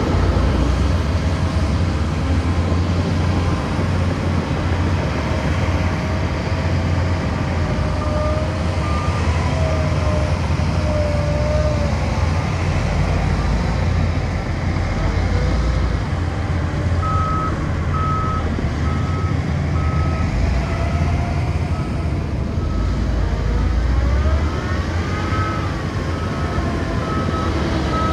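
Heavy diesel earthmoving machinery running with a deep, steady engine rumble; a little over halfway in, a reversing alarm starts beeping at an even pace.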